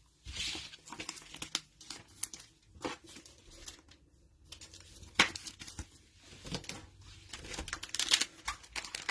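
Cellophane wrapping of trading-card cello packs being torn and crinkled, with cards handled: scattered crackles and snaps, the loudest about five seconds in, and the crinkling growing denser near the end.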